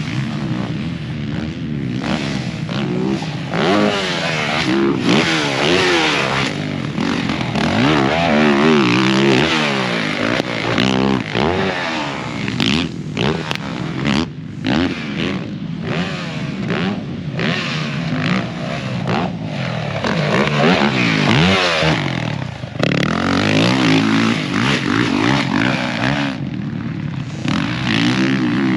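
Dirt bike engines revving hard and backing off over and over as riders accelerate through a supercross track. Several engines overlap, their pitch rising and falling every second or so.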